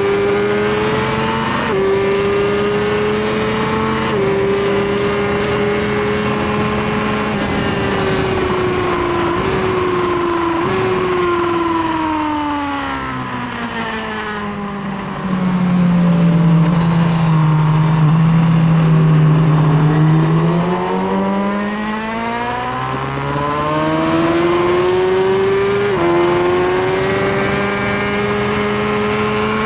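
2018 Suzuki GSX-R1000R's inline-four engine at high revs on track. It climbs in pitch through the gears, with a short drop at each upshift, then falls steadily in pitch around the middle. It holds a low steady note for several seconds, then rises again through the gears near the end. A steady rush of wind runs under it.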